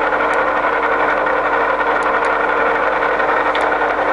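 Microweily TY22100 centre lathe running, its headstock and gearing giving a steady mechanical hum with a held tone, with a few light clicks as the feed gearbox levers are shifted.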